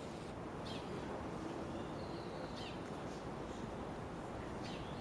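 Birds chirping, short high calls about every two seconds, over a steady low background rumble.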